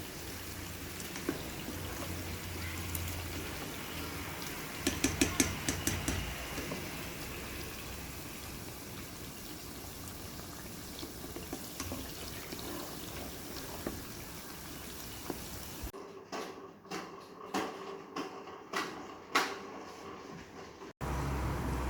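Kitchen cooking sounds: a steady hiss with a quick run of clinks about five seconds in, then, after a cut, a series of separate knocks and clinks of utensils against cookware.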